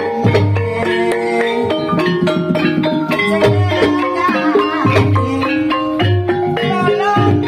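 Javanese gamelan-style accompaniment for Banyumas ebeg / barongan dancing: mallet-struck tuned percussion plays busy melodic lines over drum strokes, with a deep low boom several times.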